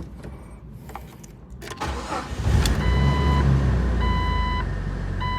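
A 2000 Jeep Wrangler's engine starts about two and a half seconds in and settles into running, its idle still relearning after a vacuum-leak repair. A dashboard warning chime beeps evenly, about once every second or so, over the engine.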